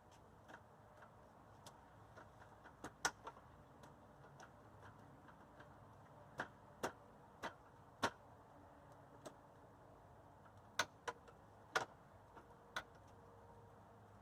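A dozen or so sharp clicks and taps at irregular intervals, loudest around three seconds in and in a cluster near the end, from parts and hand tools being handled while fitting motorcycle parts.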